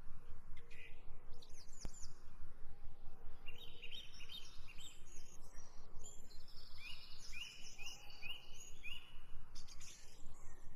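Small birds chirping in runs of short repeated notes, over a steady low background rumble.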